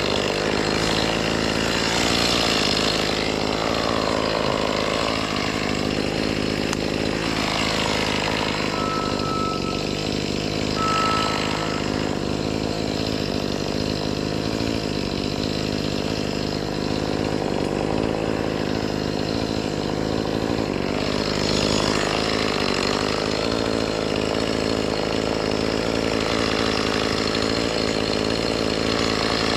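Chainsaw running continuously while cutting tree limbs, its pitch shifting a few times as the load changes.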